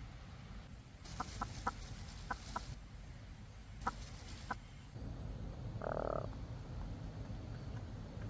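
Animal calls: a run of short, sharp calls in the first half, then one longer call about six seconds in, over a steady low rumble.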